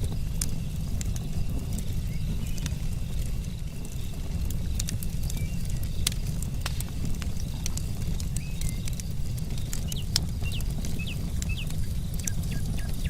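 Campfire logs burning, with irregular sharp crackles and pops over a steady low rumble of the flames. A few short chirps come in near the end.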